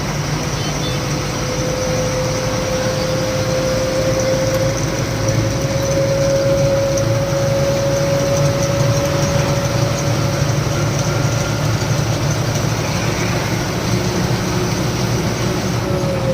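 Granite-loaded lorry's diesel engine running steadily on the road, with a whine that slowly rises in pitch and drops near the end.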